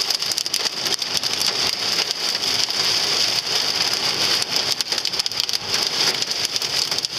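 Heavy storm rain pelting the car's roof and glass, heard from inside the car: a dense, steady patter of many small hits.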